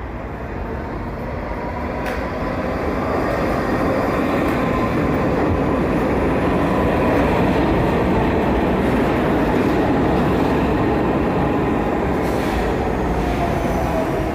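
New York City subway train, plausibly R46 cars, rumbling along the rails and growing louder over the first few seconds as it comes in, then holding steady, with a faint whine that slowly falls in pitch.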